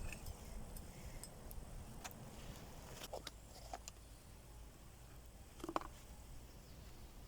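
Star campfire of logs laid end-in like spokes, burning quietly with scattered faint crackles and snaps, one a little louder just before six seconds in.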